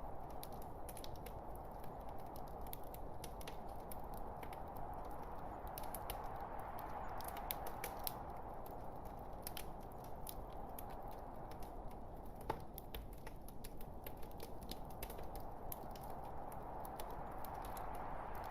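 Burning logs in a fireplace crackling: frequent sharp snaps and pops over a steady hiss, with one louder pop a little past halfway.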